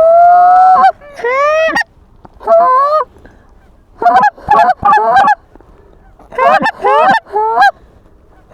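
Hand-blown Canada goose call worked close by in a run of honks and clucks. One long honk of about a second comes first, then groups of short, rising honks and quick clucks with brief pauses between them, calling geese in to decoys.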